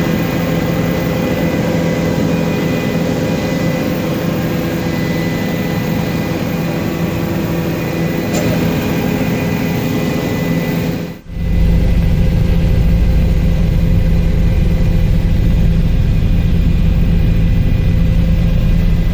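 Helicopter engine and rotor noise in flight: a steady drone with several steady tones. About eleven seconds in it drops out for a moment and comes back louder and deeper.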